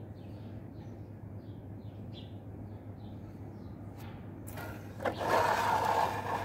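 Small birds chirping repeatedly in the background over a steady low hum. About four and a half seconds in, a louder rushing noise starts, lasts under two seconds and cuts off.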